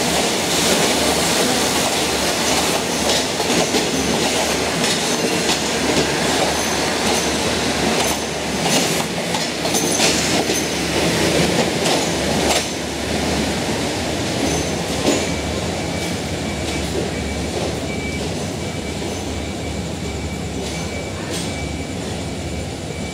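Passenger coaches of a departing State Railway of Thailand express rolling slowly past, wheels clicking over rail joints. The noise drops about halfway through as the last coach goes by, then the train rumbles on, fading into the distance.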